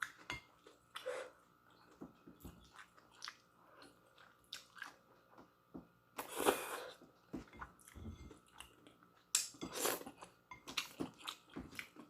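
Close-up chewing and biting of instant noodles: a string of small wet mouth clicks, with two longer noisy bursts about six and ten seconds in.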